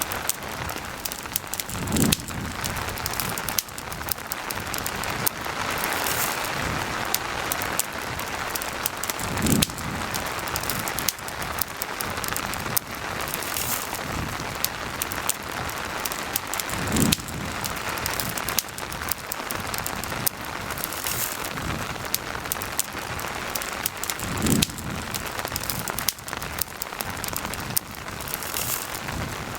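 Steady rain with a campfire crackling and popping in sharp clicks. A short low thud recurs four times, about every seven and a half seconds.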